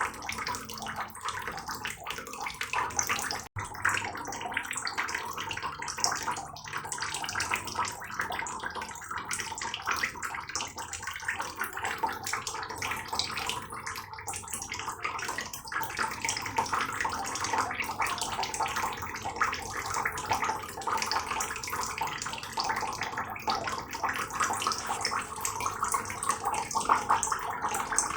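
Heavy rain falling steadily, a dense patter of countless drops. It cuts out for an instant about three and a half seconds in.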